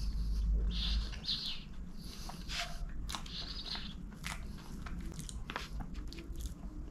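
Close-miked chewing of a mouthful of chocolate gateau, with wet mouth sounds. Then a metal fork cuts into the cake, giving several sharp clicks and scrapes.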